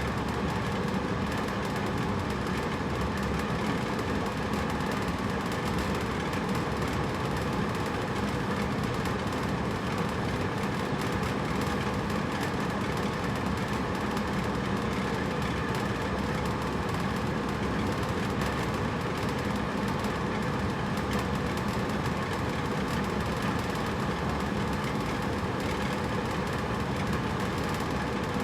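Hotel room air conditioner running steadily: an even hum and whoosh of the fan with a low drone, unchanging throughout.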